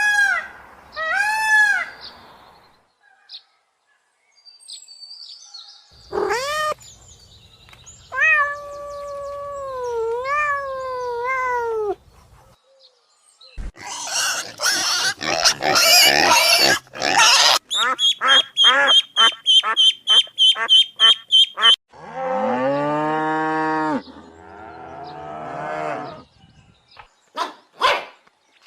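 A series of different animal calls in turn, with short gaps between them. First come pitched cries that bend up and down. Then a harsh, noisy stretch, a fast run of short repeated calls, and near the end a lower call that falls in pitch.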